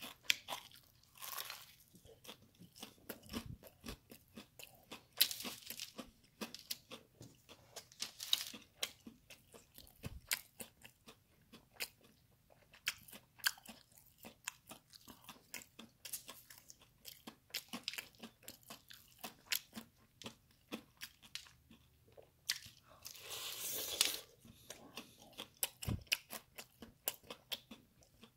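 Close-up chewing and biting of crispy fried chicken, with many irregular crunches of the breaded crust. A longer crunching stretch of about a second comes near the end.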